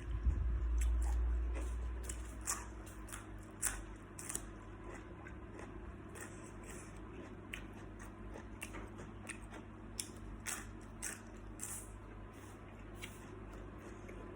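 Close-up eating sounds: salt-baked shrimp being bitten, crunched and chewed, with many small sharp crunches scattered throughout. A low rumbling bump sits under the first two seconds.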